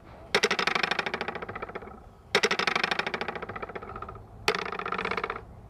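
A sound made by hand to mimic thunder: three rapid rattling rumbles about two seconds apart, each starting suddenly and fading over about a second and a half.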